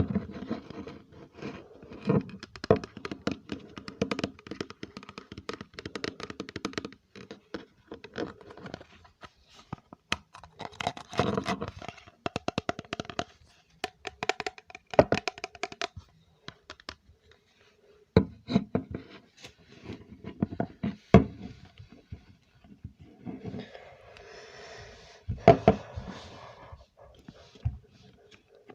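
Close-miked ASMR trigger sounds: hands scratching and handling objects in irregular bursts of rapid crackling and clicking, broken by short pauses.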